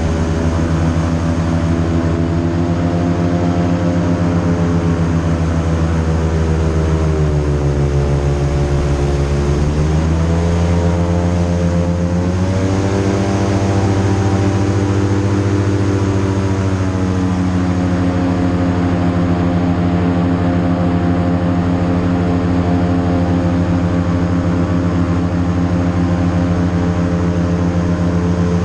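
Airboat's engine and air propeller running under way, a loud steady drone. The pitch sags about seven seconds in, climbs back around twelve seconds, then holds steady.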